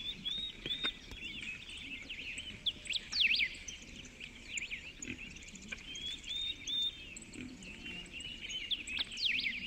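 Small birds chirping continuously: many short chirps rising and falling in quick succession, a few louder ones about three seconds in and again near the end.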